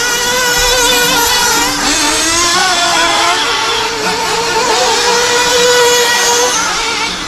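Several radio-controlled stadium trucks' small two-stroke engines, a gas truck's and nitro trucks', revving up and down as they race around the track, their pitches rising and falling with throttle.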